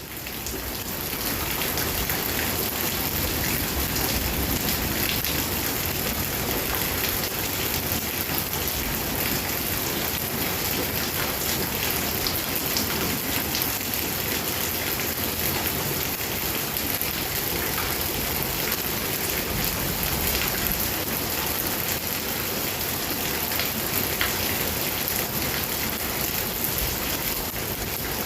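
Heavy rain pouring down in a dense, steady hiss, which swells in abruptly at the start.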